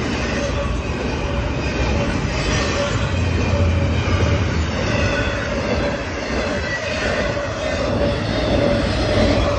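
Double-stack intermodal freight cars rolling steadily past, wheels running on the rails, with the grade-crossing bell ringing.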